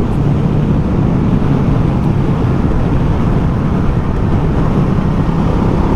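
Ducati Multistrada motorcycle engine running steadily at road speed, with a heavy rush of wind noise on the microphone.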